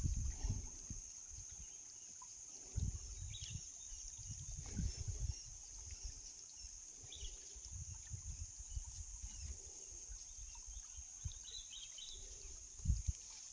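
Outdoor streamside ambience: a steady high insect drone with a few short bird chirps. Low rumbles and thuds come now and then, loudest about three seconds in and again near the end.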